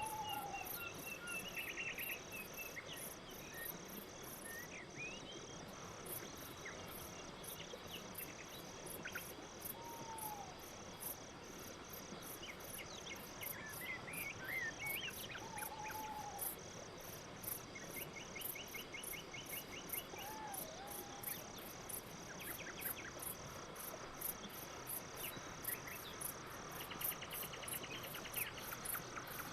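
Crickets chirping at night, a high, even chirp repeating about three times a second, with a few short whistles and brief trills now and then.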